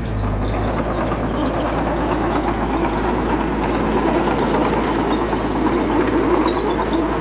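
Small bulldozer's diesel engine running steadily under work, a rough, grainy machine sound that gets a little louder just after the start.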